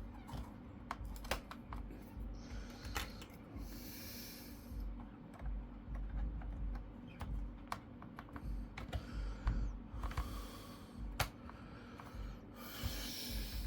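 Scattered small clicks and taps of hands handling plastic and metal laptop parts as memory modules are fitted back into an HP Pavilion G6 laptop, with a couple of brief rustles.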